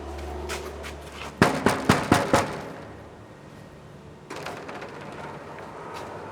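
Five sharp knocks on a door in quick succession, about a second and a half in.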